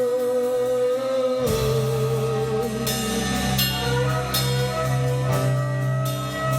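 Worship band music between sung lines: a held, wavering tone, joined about a second and a half in by bass and drums with cymbal hits.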